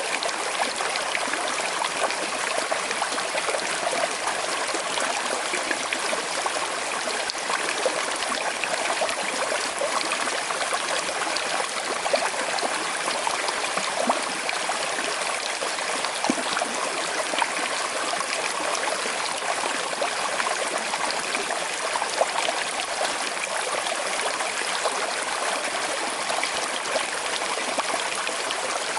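A small river flowing steadily over stones, an even rush with fine trickling and gurgling.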